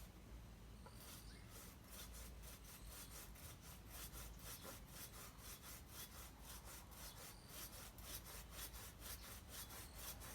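Hand saw cutting through a tree's wood in quick, even back-and-forth strokes, about three to four a second, starting about a second in.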